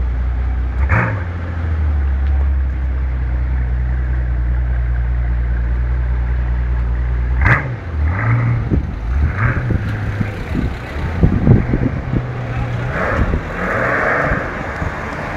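Mercedes-Benz SL65 AMG's twin-turbo V12 idling steadily. A sharp knock comes about seven and a half seconds in, and then the engine note rises and falls in short throttle blips as the car pulls away.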